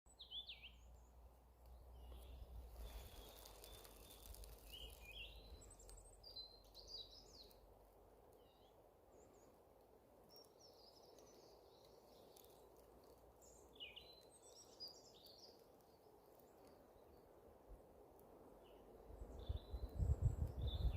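Birds calling in short scattered chirps and phrases over faint outdoor background noise. Near the end a loud low rumbling noise comes in.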